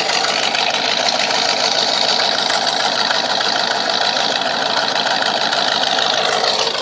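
Ford 460 big-block V8 pickup idling steadily through 12-inch glass-pack mufflers run out the side, still cold and warming up.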